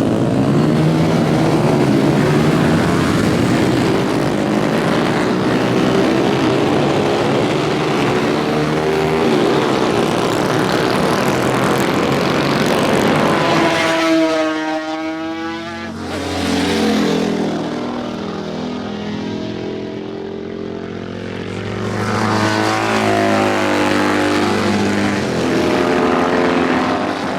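Motorcycle engines running at speed on a race circuit. About halfway through one passes close by with a sharp drop in pitch; the sound dips, then other bikes come through and it builds again.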